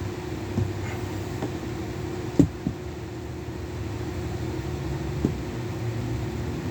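Steady background hum and low rumble, with a few short knocks, the loudest about two and a half seconds in.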